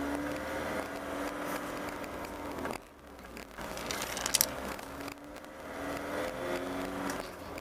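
Motor vehicle engine running, its pitch rising and falling, with a brief drop in level about three seconds in.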